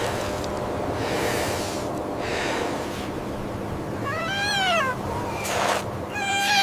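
A young animal crying: two high, mewing cries, each rising then falling in pitch, about four seconds in and again near the end, over a steady hiss like blizzard wind.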